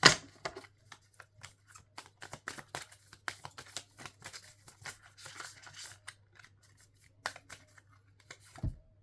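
Oracle cards being handled: a run of quick, irregular clicks and snaps, loudest at the very start, over a faint steady low hum.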